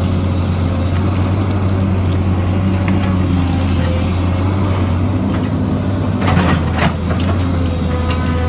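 Heavy earthmoving machine's engine running steadily with a low drone, with a brief burst of clanking and scraping a little after six seconds in.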